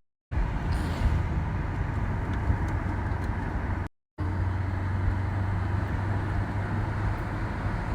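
Car cabin noise while driving: a steady low engine and road drone with tyre rumble. The sound drops out abruptly to silence twice, at the start and about four seconds in.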